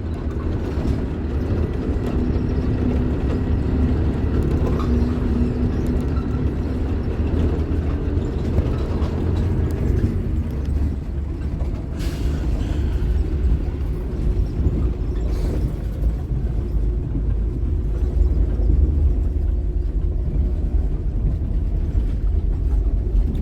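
Scania K310IB bus's diesel engine running steadily under way, a deep, even rumble, with a faint held tone in the first half that fades out about ten seconds in. A brief click sounds about twelve seconds in.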